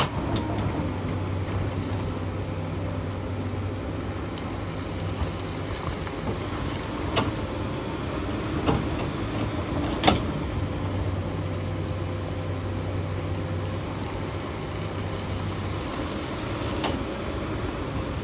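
Hyundai excavator's diesel engine running under working load, its low drone strengthening and easing as the machine works. Several sharp knocks cut through it, the loudest about ten seconds in.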